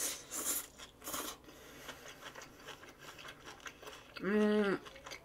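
Three quick crisp crunches in the first second or so as crunchy food is bitten, then soft chewing sounds and a short hummed "mm" about four seconds in.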